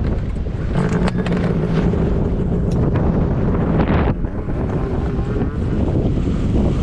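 Snowmobile engine running at a steady pitch under heavy wind noise on the microphone; the engine note breaks off about four seconds in.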